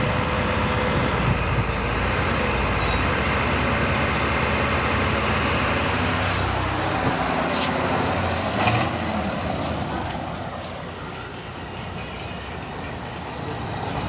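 Heavy diesel machinery engine running, with a few sharp clanks in the middle. Its note falls and it quietens about two-thirds of the way through.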